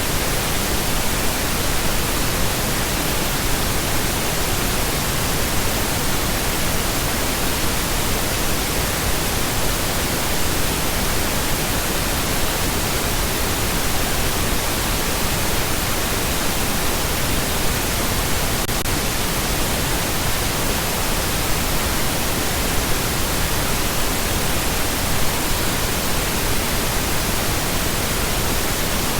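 Steady, unbroken pink noise: an even hiss spread across all pitches, fuller in the low end than white noise.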